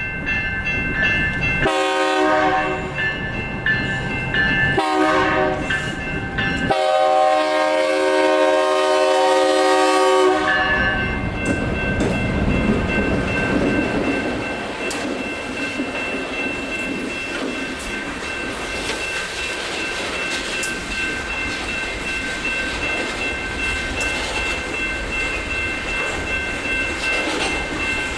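A freight locomotive's air horn sounds three blasts at a grade crossing, the last the longest, ending about ten seconds in. The train then rolls through with steady wheel clatter. Electronic crossing bells ring throughout.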